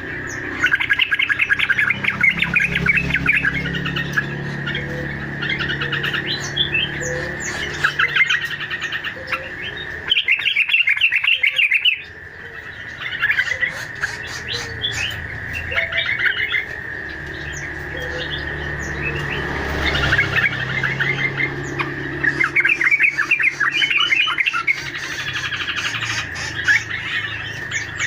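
A bird-lure recording of small fruit-eating songbirds: dense bursts of rapid chirps, twitters and trills from several birds over a steady high tone.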